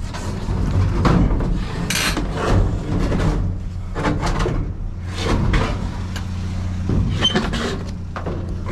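Irregular clunks and knocks of junk being handled, about one a second, over a steady low hum.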